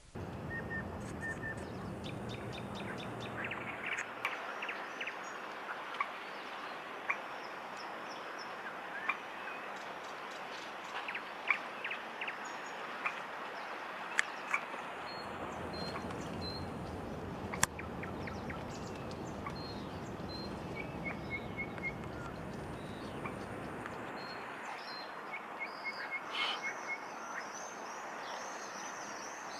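Outdoor background noise with birds calling in short runs of quick repeated high notes, and scattered sharp ticks.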